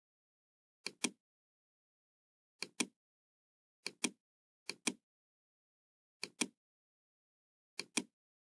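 Computer mouse clicks: six quick pairs of sharp clicks at uneven intervals, with dead silence in between.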